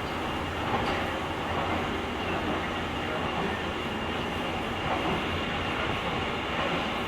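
Steady running noise of a JR Kyushu 883-series limited express train at speed, heard from inside the car's deck: wheels on rail and the rush of the moving carriage.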